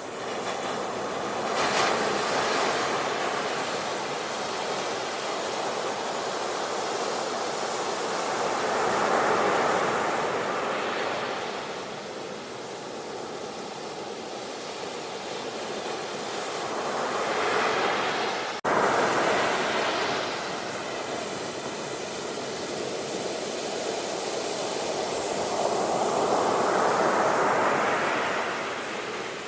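Sea waves washing onto a shore, each surge swelling and fading over several seconds, about four times. A sharp click about two-thirds of the way in, where the level jumps, marks a splice in the recording.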